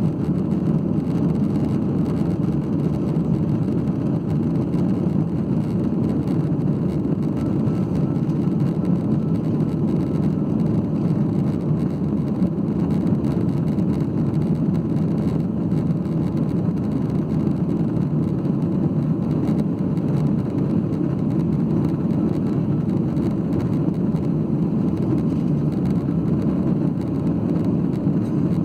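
Steady cabin drone of a Boeing 737-8, the hum of its CFM LEAP-1B jet engines and the rush of airflow heard from inside the passenger cabin, even and unchanging, with a faint high tone riding on top.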